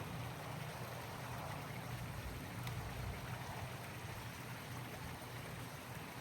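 Pool vacuum running: a steady low motor hum under a constant rush of moving water.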